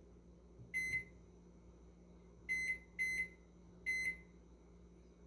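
Commercial Chef countertop microwave's control panel beeping four times as its buttons are pressed to set the clock: short high beeps, one about a second in, then two close together and a last one a second later.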